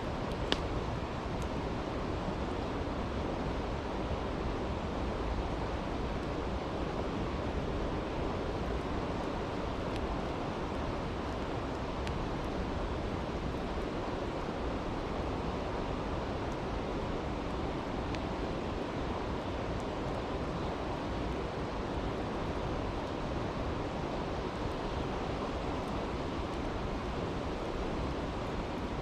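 Steady rushing of a brook, with a few sparse crackles from a campfire; the sharpest pop comes about half a second in.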